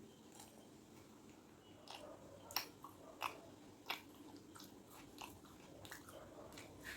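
A person eating at close range: soft chewing with a run of sharp, crunchy bites. The three loudest bites come about two-thirds of a second apart in the middle.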